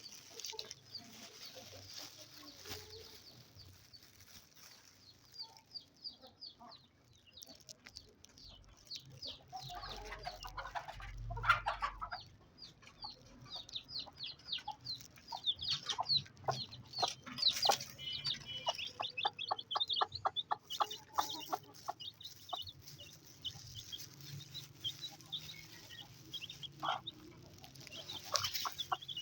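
Aseel chickens clucking and calling while they feed, with long runs of short high calls through the middle and a single loud knock about eleven seconds in.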